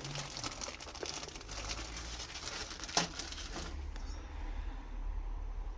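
Plastic bag crinkling and rustling as hands rummage through turbo kit parts, with one sharp click about three seconds in; the rustling stops a little later.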